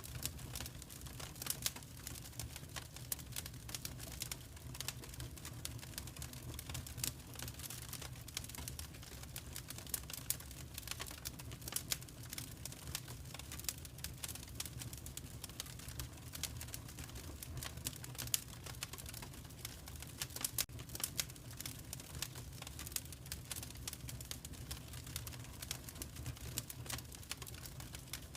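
Wood fire crackling steadily in a fireplace: irregular sharp pops and snaps over a soft low rumble of burning.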